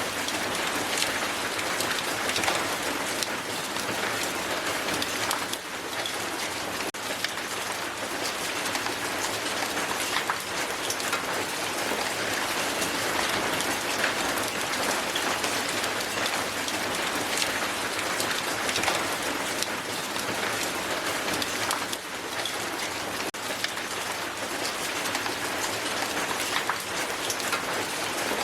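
Hail falling hard onto the ground: a dense, steady patter of countless small ice impacts.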